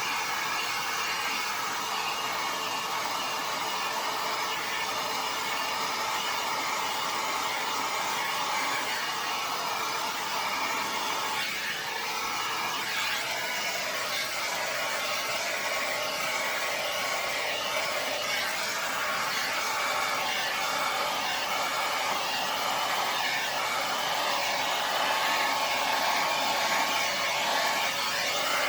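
Hair dryer blowing steadily on wet pour paint; its tone wavers in the second half.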